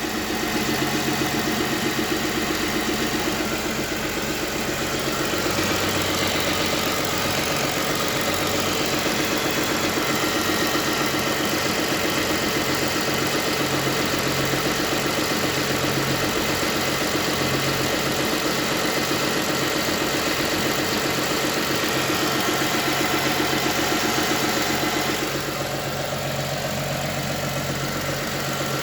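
Toyota 2GR-FE 3.5-litre V6 engine of a Camry XV40 idling steadily. It carries a hum or knock that the owner cannot place and is asking about. The sound shifts slightly and drops a little in level near the end.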